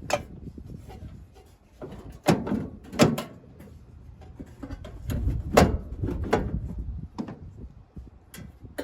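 Sheet-metal parts of a pellet grill being worked loose by hand, with a series of sharp knocks and clunks as a panel near the hopper is lifted and shifted.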